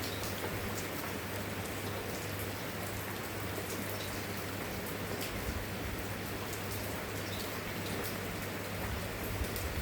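Steady rain falling, an even hiss with scattered sharp drop impacts, over a steady low hum.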